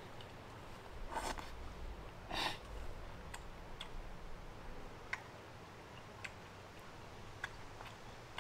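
Eating with utensils at a camp table: a few light, scattered clicks against a dish, and two short scraping sounds about one and two and a half seconds in.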